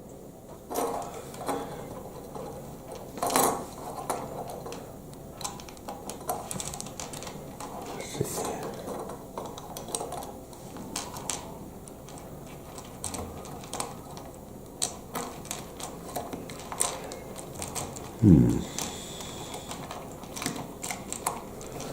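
Small plastic Lego Technic pieces clicking and rattling as they are handled and pressed together, in irregular taps and snaps. A brief voice sound cuts in once near the end.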